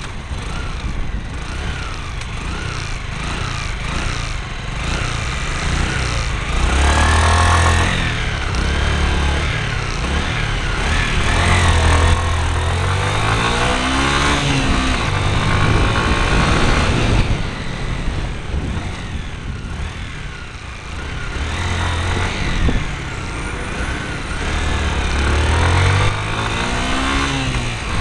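Motorcycle engine picked up by a camera mounted on the bike while riding, under steady wind noise. The revs climb and drop several times as the bike accelerates.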